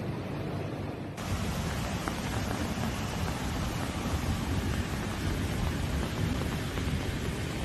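Steady hiss of a heavy rainstorm, growing louder and fuller about a second in.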